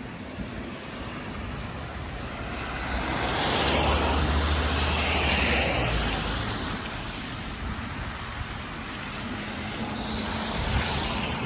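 A vehicle going past: a rushing noise that swells for a few seconds and fades, with a low rumble at its loudest, and a smaller swell near the end.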